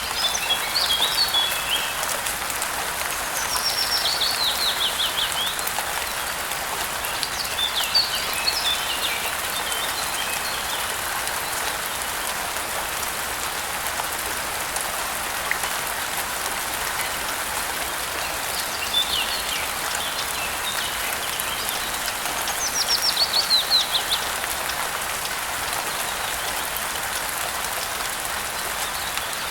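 Steady rain falling, with songbirds singing short phrases of quick descending chirps and trills about five times over it.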